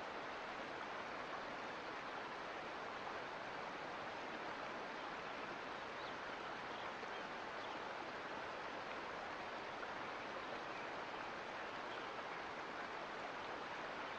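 Mountain creek water running and splashing over rocks, a steady even rush.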